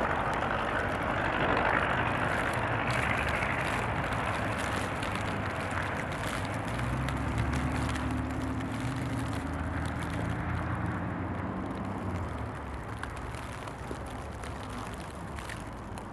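A heavy vehicle's engine running over a steady haze of traffic and wind noise, its low hum strongest around the middle and the sound slowly fading toward the end.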